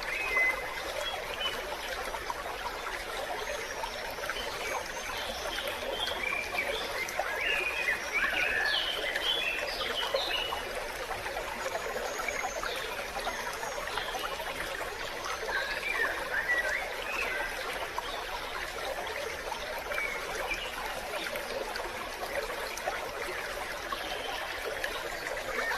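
A small stream trickling and gurgling steadily, with scattered short high chirps in a few clusters.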